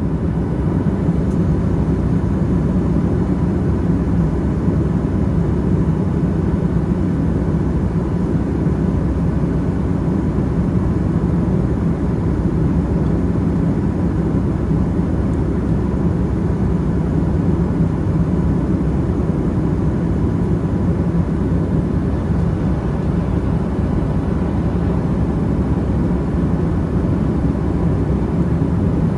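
Steady aircraft cabin noise inside a Boeing 757-200 airliner: an even low rumble of engines and airflow with a faint steady hum, unchanging throughout.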